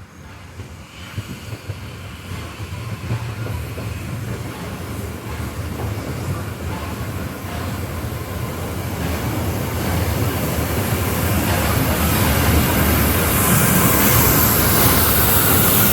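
Train hauled by the Swiss E 3/3 steam tank locomotive 8518 approaching, its rumble and rail noise growing steadily louder, with a bright hiss strongest in the last few seconds.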